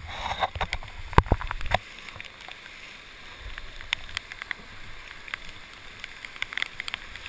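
Rushing whitewater river, running high at about 3000 cfs, as a steady hiss heard from a raft. Several sharp knocks and a low rumble come in the first two seconds, with lighter clicks and splashes after.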